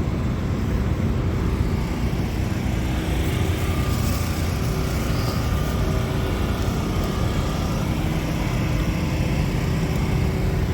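An engine running steadily, giving a continuous low drone with faint held tones above it.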